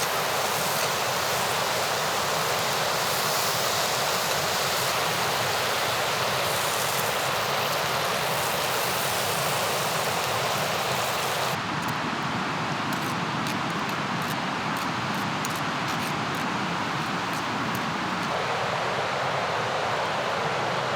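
Rushing mountain river: a steady, loud wash of fast-flowing water. About halfway through, the sound changes abruptly to a duller rush with less hiss and a few faint ticks.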